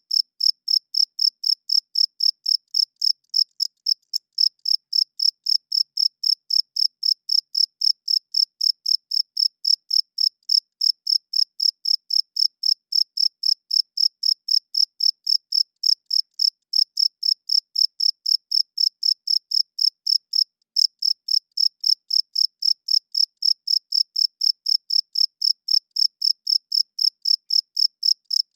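Crickets chirping: an even, high-pitched pulsing at about three chirps a second, with a brief break about four seconds in and another about twenty-one seconds in.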